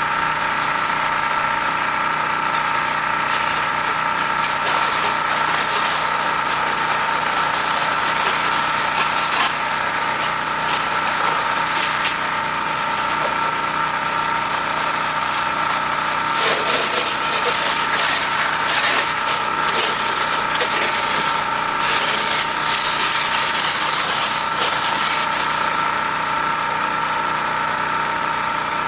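Pressure washer engine running steadily under load, with the hiss of the high-pressure water spray growing and fading as the wand is worked across the house siding.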